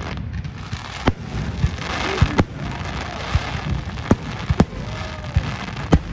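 Fireworks display: aerial shells bursting in sharp bangs, about five in six seconds, with lower thuds between them over a continuous noisy rumble.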